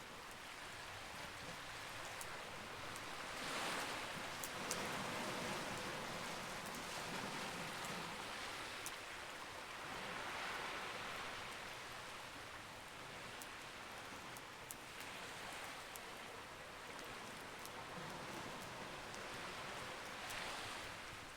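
Campfire crackling, with scattered sharp pops and snaps, over a wash of sea waves that swells and ebbs every several seconds.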